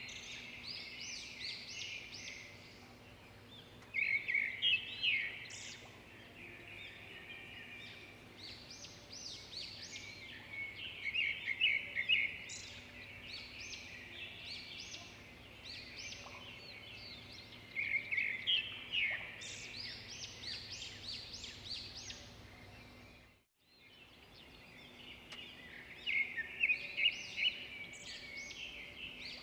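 Small songbirds singing in repeated bursts of rapid high chirps, a burst every few seconds, over a faint steady hum. The sound cuts out briefly about three-quarters of the way through.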